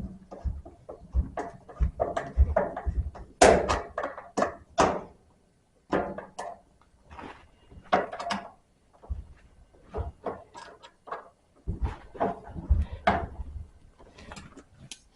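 Dryer vent hose being fitted back onto the back of a dryer: a run of irregular knocks, clunks and rattles from hands handling the hose and the cabinet.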